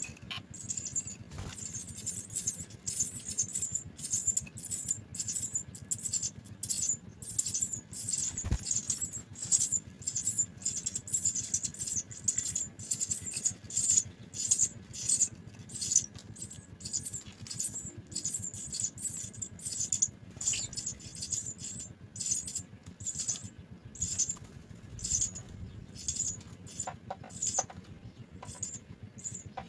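House sparrow nestlings cheeping: a steady run of short, high-pitched begging calls, two or three a second.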